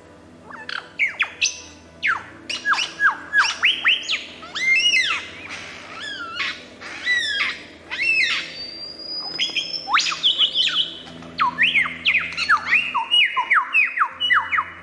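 Birds calling: a busy run of short, sharp squawks and quick falling whistled chirps, over a low steady music bed.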